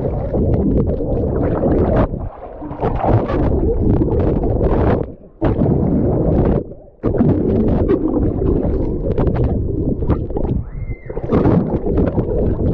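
Water rushing and gurgling against a GoPro's microphone as it moves through the sea with a swimmer, a loud muffled churn that drops out suddenly several times.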